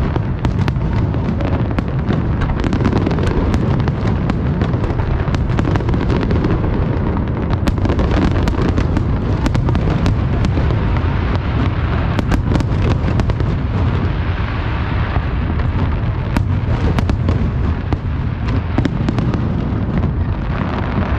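Aerial fireworks bursting one after another: a continuous heavy booming with many sharp cracks and crackles running through it.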